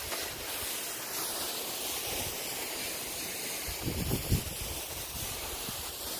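Steady rushing of a waterfall, with a few low wind bumps on the microphone about four seconds in.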